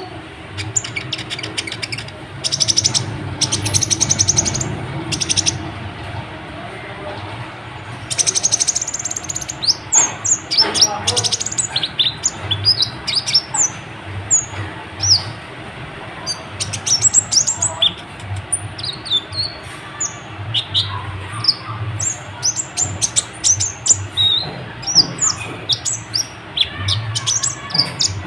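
Kolibri ninja (Van Hasselt's sunbird) singing continuously: rapid high-pitched trills and many short, sharp, downslurred chirps in quick succession.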